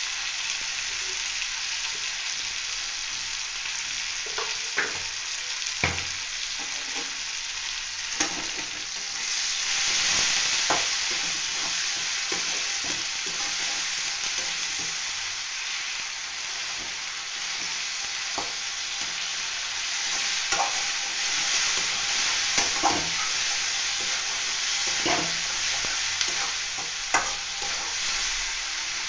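Onion and tomato sizzling in hot mustard oil in a metal kadai, a steady frying hiss, while a flat metal spatula stirs them, scraping and knocking against the pan in irregular clinks.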